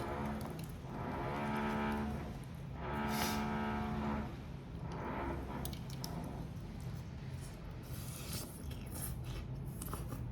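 A person humming two long, level "mmm" notes, each about a second, in the first half, then scattered light clicks and crackles of food being handled and eaten.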